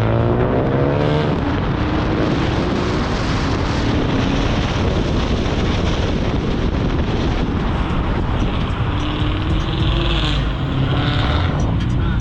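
Car engines running loud amid dense noise, with engine pitch rising and falling about a second in and again near the end.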